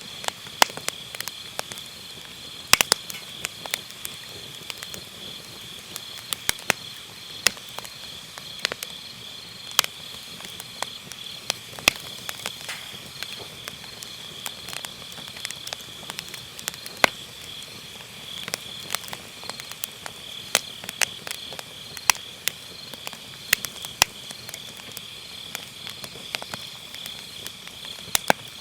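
Firewood burning in a fire pit, crackling with frequent sharp, irregular pops, over a steady high-pitched chirring of autumn night insects.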